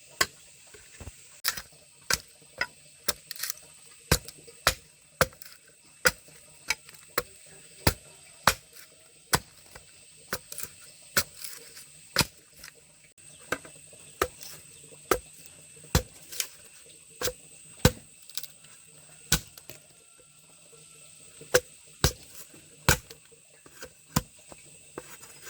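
Repeated sharp chopping blows from a blade striking wood, irregular, about one or two a second.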